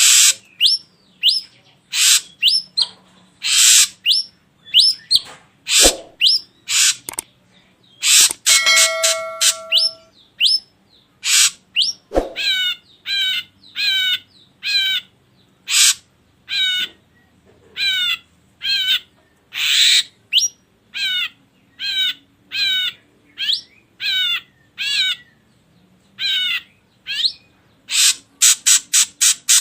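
Ashy drongo calling in a varied series of short, sharp notes: falling whistles and harsh chattering bursts, a held whistle, then a long run of the same wavy call repeated a little more than once a second, and a quick burst of rapid notes near the end.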